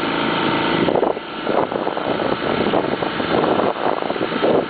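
Small boat engine running steadily, with wind and water noise around it.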